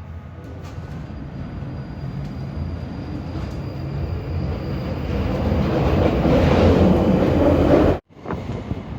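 London Underground Northern Line tube train running in tunnel, its rumble building steadily louder, then cutting off suddenly near the end.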